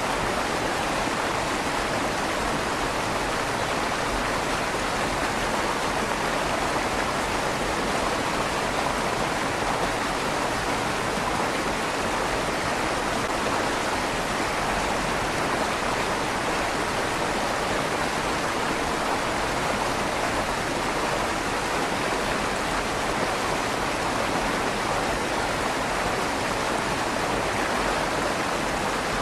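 River water flowing steadily under a stone bridge, the rush of the stream echoing slightly off the stone walls of the tunnel. An even, unbroken sound, strongest in the middle range.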